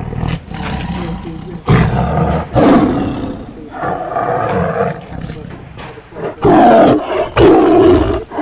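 Tiger roaring and growling in a run of about five deep calls, each lasting under a second, the loudest two near the end.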